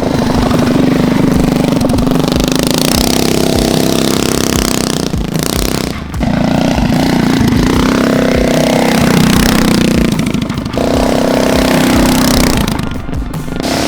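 Harbor Freight Predator Ghost 212cc single-cylinder four-stroke engine on a mini trike running at high revs under throttle, briefly easing off about six seconds in and again near the end.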